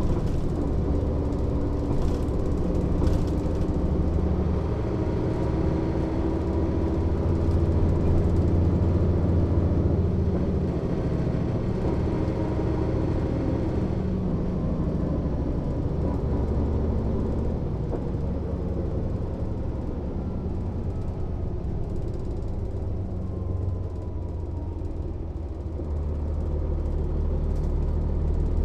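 Mercedes-Benz O 407 city bus's six-cylinder diesel engine running while the bus drives, heard from on board as a steady low drone with faint rising and falling whines above it. It swells about a third of the way in, eases off about three-quarters through, and builds again near the end.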